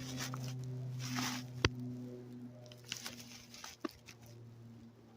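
A steady low hum, with scattered rustling and small clicks over it, loudest in the first second or so.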